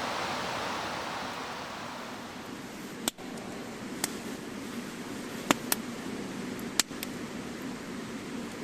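Rushing stream water fading out, then a wood campfire burning with a low steady rush and a handful of sharp, separate crackling pops.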